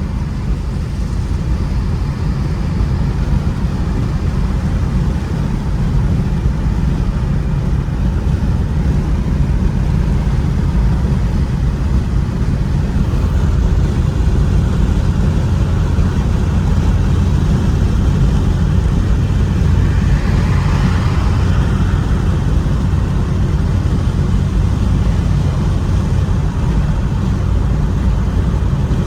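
Ford Mustang's engine and road noise while driving, a steady low drone. A brief swell of higher hiss comes about two-thirds of the way through.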